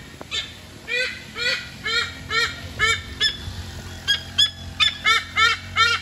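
A bird calling a long series of loud calls, about two a second, each rising then falling in pitch, coming faster near the end.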